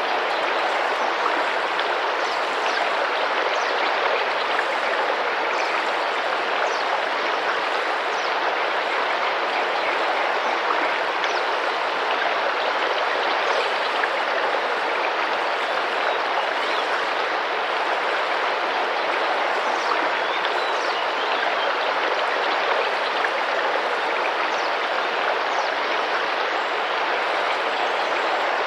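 Tropical rainforest river running with a steady, even rush of splashing water, with faint short high bird chirps now and then above it.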